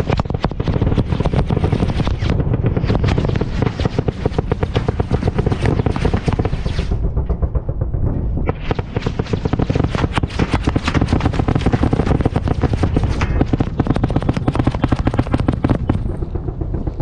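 Apache 30 mm autocannon fire heard close to the target, rounds cracking and hitting in a rapid, continuous string. There are two long stretches of fire, with a short let-up about seven seconds in.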